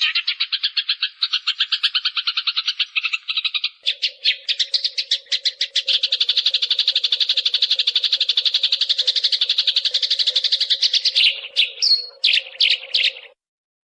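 Eurasian tree sparrow (burung gereja) giving a fast, rapid run of chirps in an even rhythm. It breaks into a looser series of chirps near the end and then stops abruptly.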